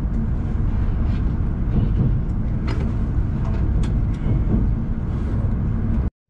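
Shinkansen train running: a loud, steady low rumble with a few short clicks and rattles, cutting off abruptly near the end.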